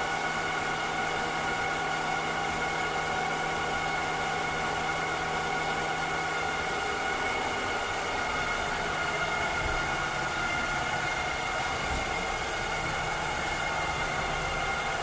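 A cleaning robot's motor running steadily: an even rushing noise with a constant high whine over it. A low hum under it drops away about halfway through.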